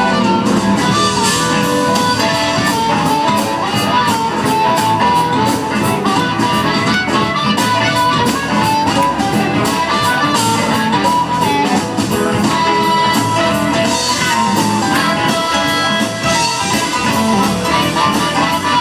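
Live electric blues band playing an up-tempo boogie instrumental, with a guitar line over a steady beat.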